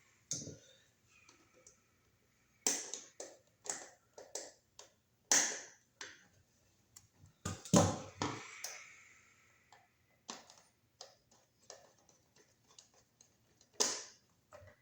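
Irregular sharp clicks and taps of a screwdriver and wire on a receptacle's metal as the ground wire is hooked onto the green ground screw and the screw is tightened; the loudest click comes about eight seconds in, with a short ring after it.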